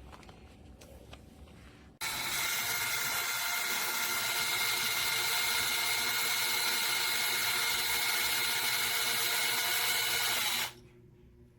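DEKOPRO 20V cordless drill running at a steady speed with an even whine. It starts suddenly about two seconds in and stops abruptly near the end, with light clicks of handling before it starts.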